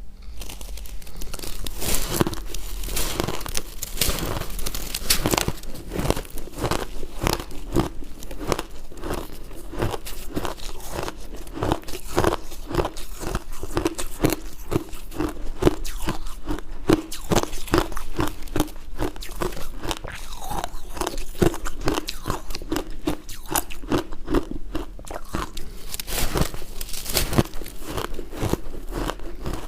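Ice being bitten and chewed close to the microphone: hard, sharp crunches of ice breaking between the teeth in a steady chewing rhythm, with a few louder bites.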